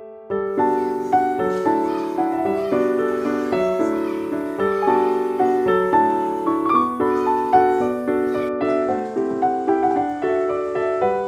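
Background piano music: a soft melody of steady, evenly paced notes that starts about half a second in.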